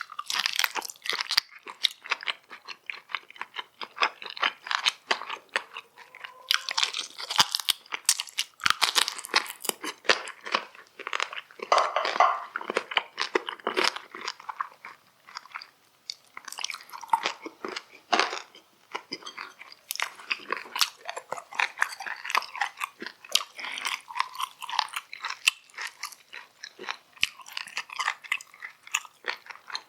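Close-miked eating sounds: a person chewing and biting food in a dense, irregular run of crunches and clicks.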